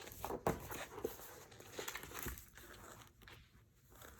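Soft handling noises of paper: light rustling with a few small taps and knocks, dying away a little past halfway.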